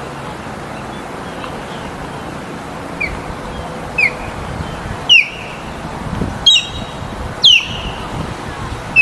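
A bird calling repeatedly: six short calls sliding downward in pitch, about one a second from about three seconds in, growing louder, over a steady background hiss.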